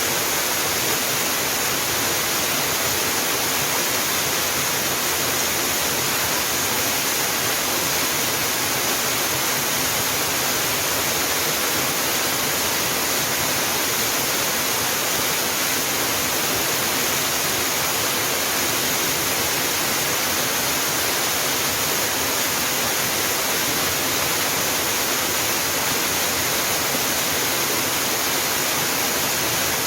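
Waterfall: water falling and splashing in a steady, unbroken rush, a bright even hiss with little low rumble.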